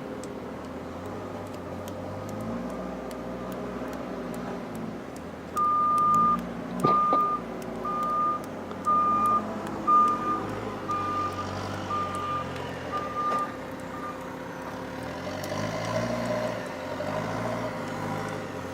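Truck engine running while its reversing alarm beeps about once a second, nine beeps that fade as they go, with a single clank about seven seconds in. Near the end the engine note rises.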